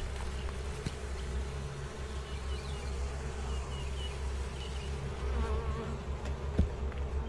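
Honeybees buzzing around an opened hive: a steady, dense hum.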